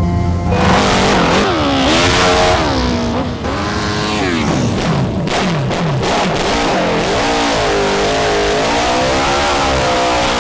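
1000cc dirt bike engine revving: its pitch sweeps up and falls back several times, with a quick drop in the middle, then holds steadier with a wavering pitch near the end.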